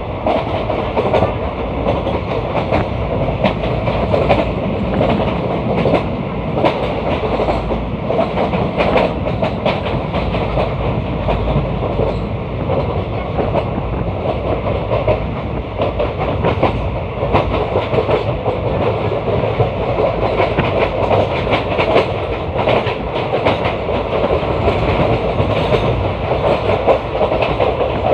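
Indian Railways ICF passenger coach running at speed on the line: a steady rumble of wheels on rail with frequent clacks as the wheels cross rail joints.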